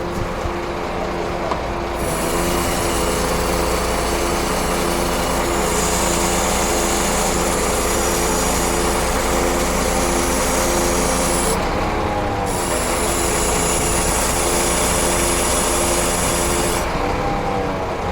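Scania truck's diesel engine running steadily under way, with a high hiss over it. Twice, about twelve seconds in and near the end, the engine note dips and comes back up while the hiss briefly stops.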